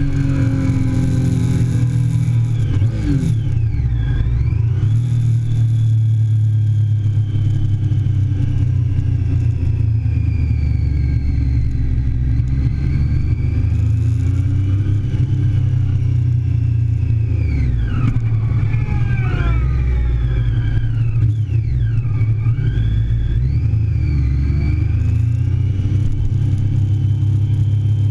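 Onboard sound of a 2008 Triumph Daytona 675's inline-three engine at speed, revs climbing and then dropping sharply several times as it changes gear and slows for corners, over a steady low rumble.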